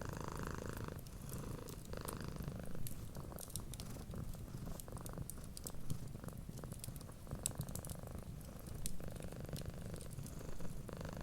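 Cat purring close up in a steady low rumble that swells and eases with each breath, every second or two. Scattered sharp crackles of a wood fire sound over it.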